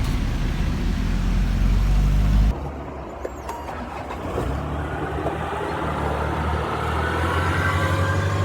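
Truck engine running while driving, with an abrupt change to a quieter engine sound about two and a half seconds in, then the engine pitch slowly rising near the end as it accelerates.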